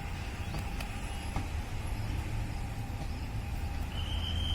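A steady low rumble of background noise, like traffic or a running motor. Near the end comes a short, high, steady whistle-like note.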